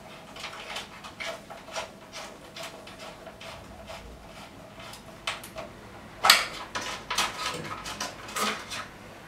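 Light clicks, taps and rustles of hands fitting DC cables into a solar inverter's wiring terminals, with a louder clatter about six seconds in.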